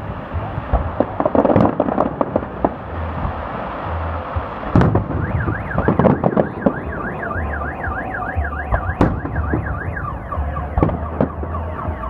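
Fireworks salute shells bursting with irregular bangs and crackles, the loudest about five and six seconds in. From about five seconds in a car alarm siren warbles up and down, about three sweeps a second, set off by the blasts.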